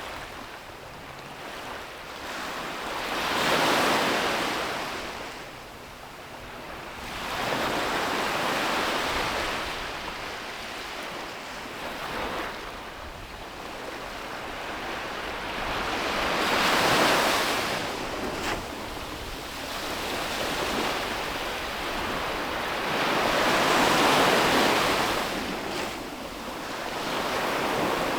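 Ocean waves breaking on a beach, the surf swelling up and washing back in slow surges every several seconds, with a few louder breaks.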